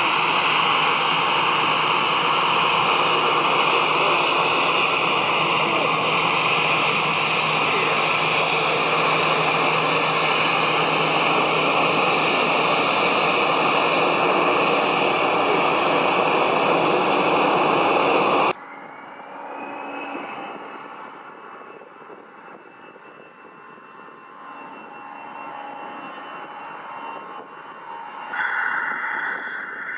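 Airbus A320-214 jet engines (CFM56-5B) running: loud, steady jet noise that cuts off abruptly about 18 seconds in. A much quieter engine sound follows, with a faint rising whine, and a louder engine sound comes in near the end.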